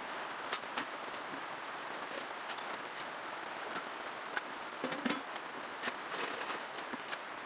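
Light rain falling steadily, with scattered sharp drips ticking.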